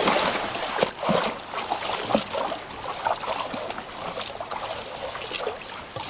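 River water splashing and trickling, with irregular short splashes.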